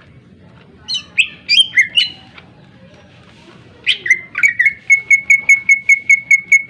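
Greater green leafbird (cucak ijo) singing: a few sharp, sweeping notes about a second in, then a fast run of repeated identical notes, about five a second, from about four seconds on.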